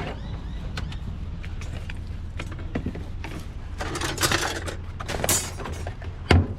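A discarded metal machine being handled and shifted as scrap: creaks, scrapes and small clicks, with one loud knock near the end. A steady low hum runs underneath.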